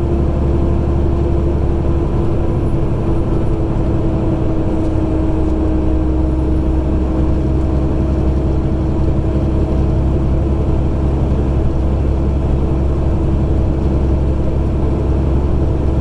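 Semi-truck's diesel engine and road noise heard inside the cab, a steady low drone with a constant whine on top while the truck climbs a mountain grade.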